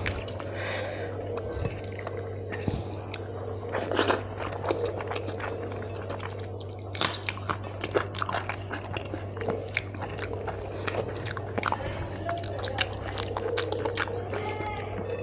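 Close-up mouth sounds of chewing, with many small wet clicks and smacks, alongside the squish of rice and curry being mixed and pressed into a ball by hand on the plate. A steady low hum runs underneath.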